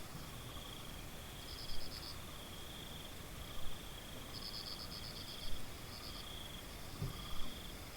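Crickets chirping in fast pulsed trills: one steady high chirring, with louder rapid bursts from another caller every second or two. A brief soft low thump comes about seven seconds in.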